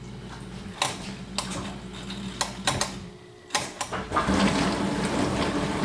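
A few handling clicks and knocks, then about four seconds in a garbage disposal is switched on and runs steadily with water, a louder noisy churning. The disposal is suspected of being clogged and backing water up into the dishwasher.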